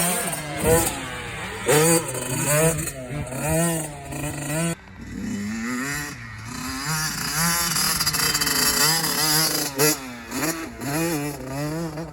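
Dirt bike engines revving on a motocross track, the pitch rising and falling again and again as the throttle opens and closes, with an abrupt change about five seconds in.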